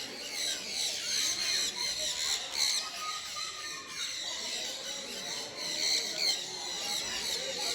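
A flock of small birds chirping and squeaking together, a dense, continuous chatter of many short high calls.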